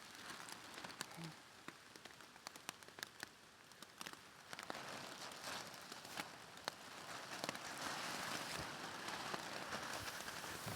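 Rain falling on thick polytunnel plastic sheeting overhead: many sharp separate drop ticks over a hiss that swells into heavier, steadier rain from about halfway.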